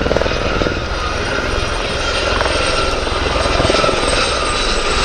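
Aérospatiale Gazelle helicopters flying: a fast, steady rotor chop with a steady high-pitched whine running over it.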